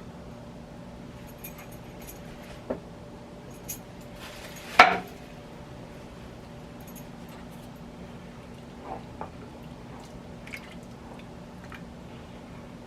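Kitchen handling sounds over a steady low hum: a few light clicks and one loud, sharp clink of dishware about five seconds in.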